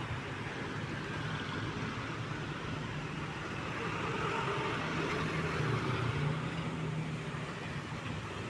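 Truck engine running as it passes over steady road traffic noise, swelling to its loudest about four to six seconds in and then easing off.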